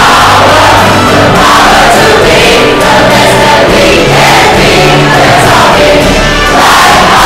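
A large group singing together loudly over music, like a crowd singing along to a song.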